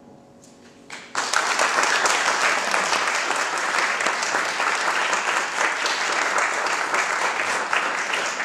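The last sustained notes of the accompaniment die away, then about a second in an audience breaks into applause that carries on steadily.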